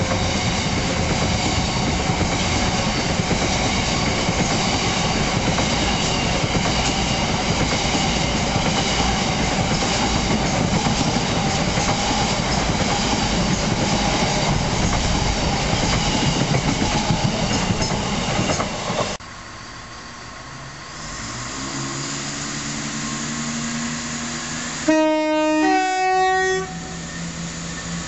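A long freight train of covered hopper wagons passing at speed, with a steady, loud rush of wheels on rail that stops suddenly as the last wagon clears about two-thirds of the way through. Then a Class 170 Turbostar diesel multiple unit approaches, its engine note stepping up in pitch, and gives two short blasts on its horn near the end, the second note higher than the first.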